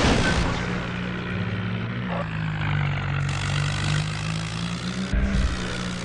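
Tractor engine running with a steady drone, its note dropping slightly about two seconds in, after a brief burst of noise at the very start.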